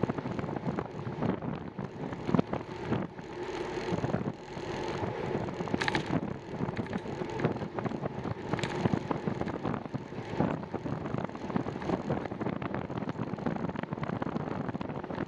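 Bicycle riding noise: wind buffeting the microphone over tyre and drivetrain noise, with frequent small clicks and rattles.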